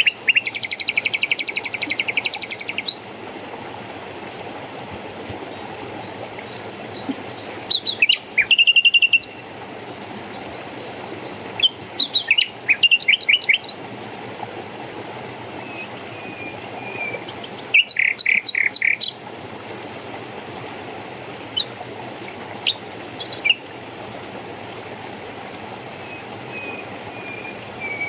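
Small songbirds chirping and trilling in separate bursts every few seconds, the loudest a rapid buzzy trill at the start, over a steady rush of flowing water.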